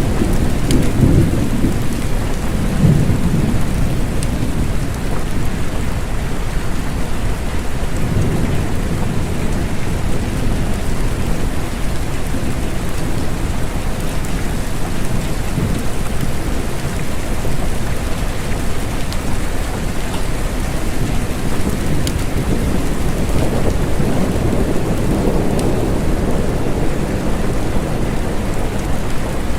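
Steady rain falling, with low rumbles of distant thunder swelling near the start, about a quarter of the way in, and again near the end.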